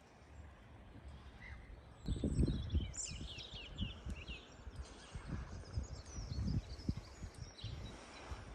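Wind buffeting the microphone in uneven low gusts that start about two seconds in, with small birds chirping and whistling in short bursts over it, thickest about three seconds in.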